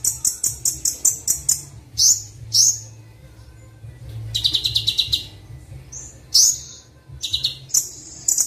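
Kolibri Wulung sunbird song: bursts of fast, high, sharp chips, about six a second, broken by short gaps and a few single upswept notes, over a low steady hum.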